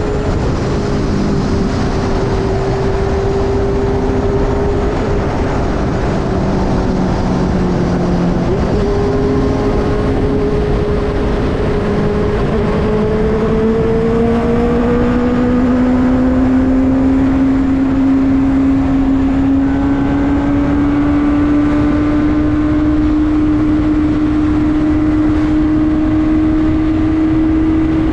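Benelli TNT600i's inline-four engine running under way at steady revs. Its note climbs slowly through the second half as the bike gathers speed.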